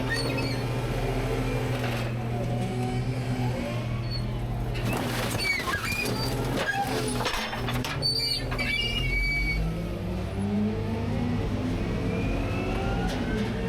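Rear-load garbage truck running, with the hopper's hydraulic packer working. Knocks, crunching and high metal squeals come through the middle as trash is compacted. Near the end the engine revs up with a rising whine.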